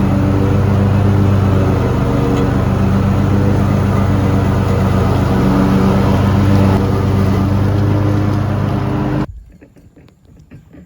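Tractor engine running at a steady speed. The sound cuts off abruptly about nine seconds in, leaving only faint scattered noise.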